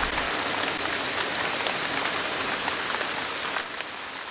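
Steady rain falling, with many individual drops ticking on surfaces. It gets a little quieter about three and a half seconds in.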